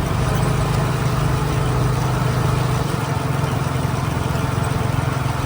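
Motorcycle taxi's engine running steadily during the ride, with a constant rush of wind and road noise.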